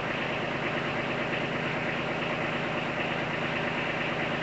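Kubota B2320 tractor's three-cylinder diesel engine running steadily at idle.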